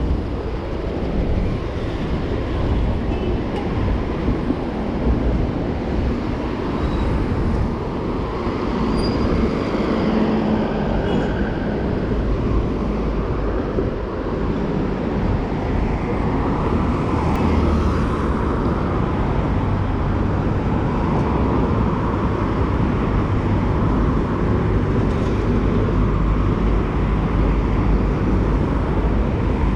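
Steady city street traffic with a continuous low rumble, heard from a bicycle riding through the streets.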